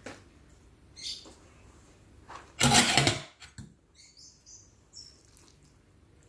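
Close-miked eating sounds from spicy chicken feet salad: wet chewing, lip smacks and small squeaky mouth noises, with one louder, longer burst of eating noise about two and a half seconds in.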